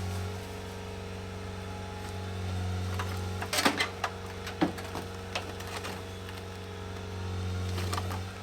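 A motor running steadily with a low hum that swells and eases twice, with a short cluster of sharp clicks and knocks in the middle and another near the end.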